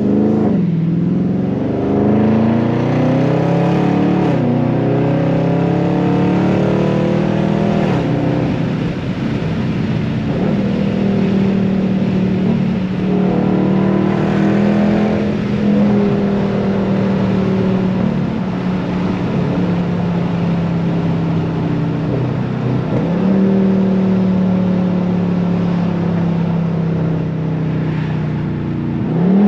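Dodge Charger Scat Pack's 392 (6.4-litre) Hemi V8 accelerating through the gears: the pitch climbs and drops back three times in the first eight seconds as it shifts up. It then settles into a steady cruising drone, with a brief rise about 23 seconds in.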